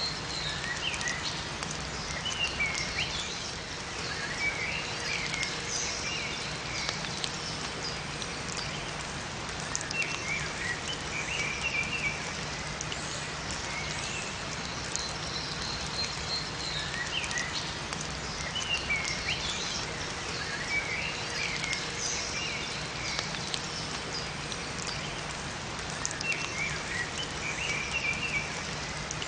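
Steady rain falling in a forest, with small songbirds chirping in short, high phrases that come back every few seconds over the rain.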